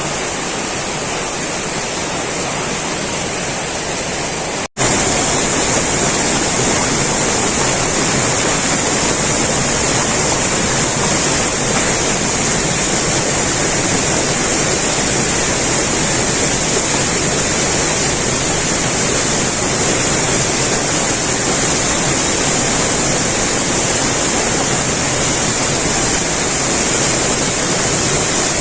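Heavy rain falling steadily: a dense, even hiss. It drops out for a split second about five seconds in and comes back a little louder.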